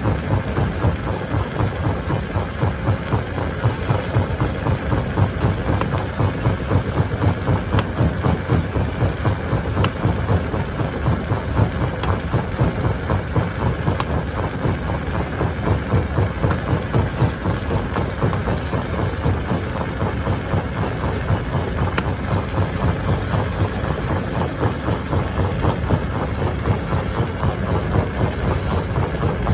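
Stone crusher machine running: a steady, heavy mechanical rumble with a fast churning pulse, and a sharp crack every few seconds.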